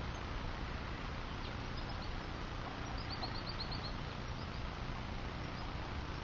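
Steady road-traffic noise with scattered faint, high chirps from small songbirds, including a quick run of about eight short chirps around the middle.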